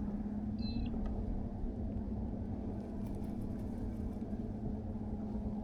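A steady low hum with one constant tone, like a small motor running, over a low rumble. A short high chirp comes once, about half a second in.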